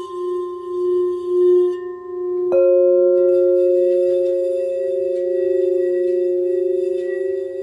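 Crystal singing bowls ringing in long sustained tones with a slow wavering beat; about two and a half seconds in, another bowl is struck and rings on over them at a higher note.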